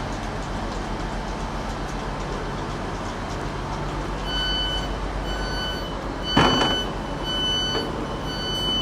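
Door warning beeps of a tram or train, a run of evenly spaced high beeps about one and a half a second, starting about four seconds in over the vehicle's steady rumble. Midway through the beeping comes a short loud burst of noise.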